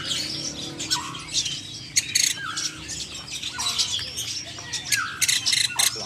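Many caged songbirds chirping and squawking at once, with sharp high chirps over a short hooked call that repeats about once a second. Many of the birds are young hand-fed songbirds.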